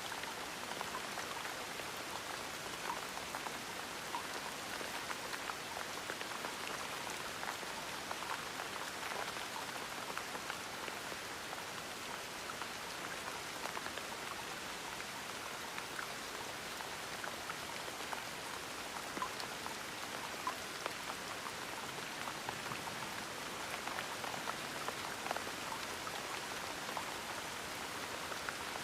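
Gentle steady rain, with many small individual drops ticking on a surface over an even hiss.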